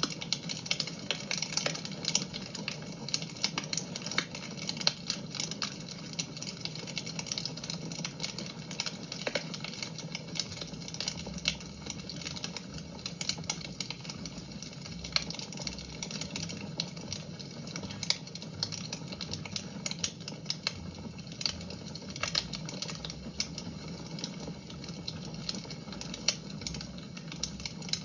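Wood fire in a fireplace crackling: irregular sharp pops and snaps, several a second and uneven in loudness, over a steady low rumble of the burning fire.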